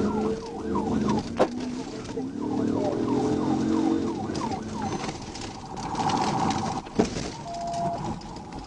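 Police cruiser siren on yelp: rapid falling sweeps, about three a second, then a steadier tone from about five seconds in, with a couple of sharp clicks.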